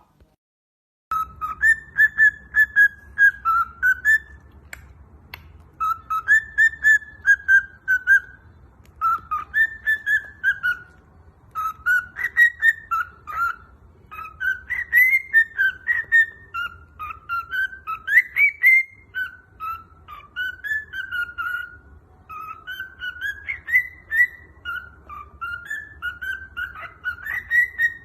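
Cockatiel whistling a learned tune in repeated phrases of clear notes that glide up and down, with short breaks between phrases.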